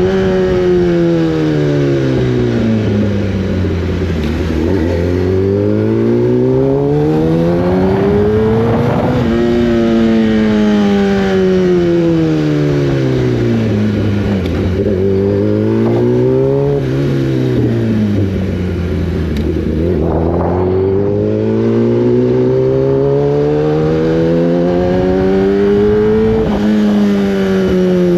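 Inline-four sportbike engine under way, its pitch falling smoothly as the bike slows and climbing again as it accelerates, several times over, with steady wind and road noise underneath.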